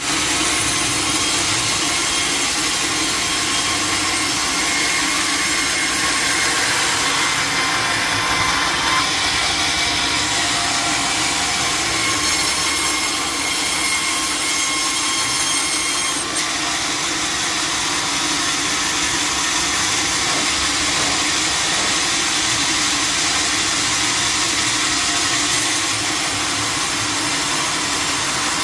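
Sawmill saw running and cutting through timber: a steady, loud mechanical noise over a constant hum, changing slightly in tone a few times.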